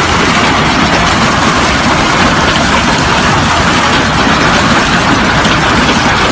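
Very large hailstones, beyond baseball size, pounding down in a severe hailstorm: a loud, dense, steady noise of countless impacts.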